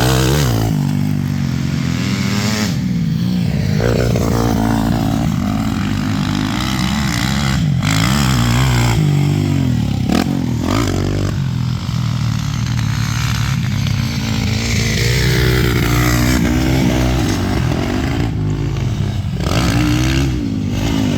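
Motocross dirt bike engine revving up and easing off again and again, its pitch rising and falling, with a few brief sharp noises along the way.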